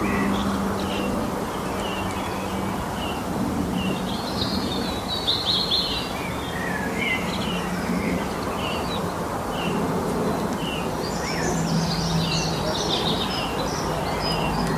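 Several small birds chirping in short, repeated high calls, busier about four seconds in and again in the second half, over a steady background hiss and a low hum.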